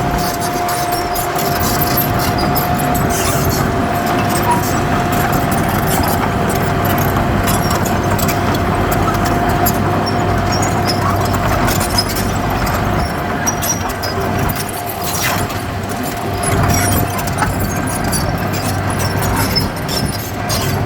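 Heavy diesel earthmoving machinery running steadily, with a constant high whine over a low engine hum and scattered clicks and clanks.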